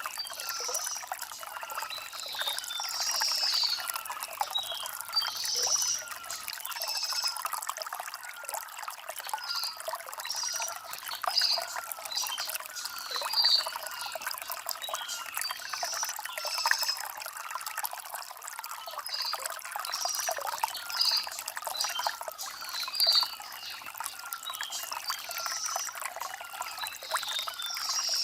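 Shallow stream trickling and gurgling over river stones, a steady splashy flow with frequent small bubbling notes.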